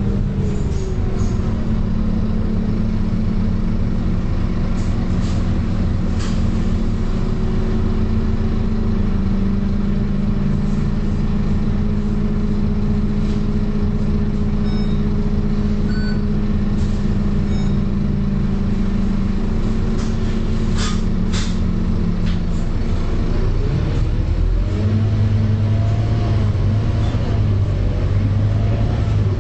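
Scania K230UB bus's five-cylinder diesel engine running steadily under way. Near the end the engine note dips and climbs again, then settles to a lower, deeper hum. A few faint short beeps come about halfway through.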